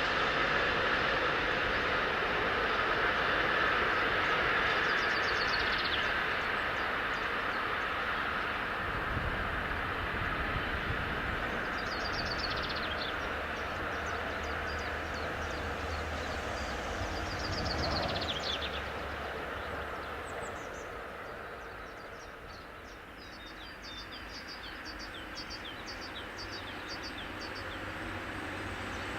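Train rolling along the track and fading into the distance, then the rail noise building again near the end. Birds chirp in short repeated calls over it.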